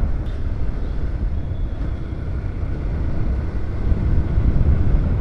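Riding noise on a moving motorcycle: wind buffeting the microphone over the engine and road rumble, a steady low, fluctuating roar.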